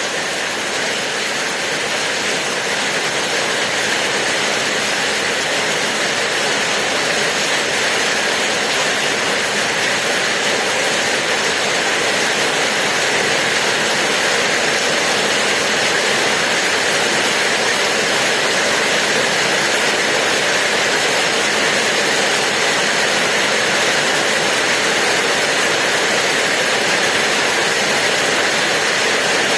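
Steady heavy rain: a dense, even hiss in which no single drops stand out. It grows slightly louder over the first few seconds.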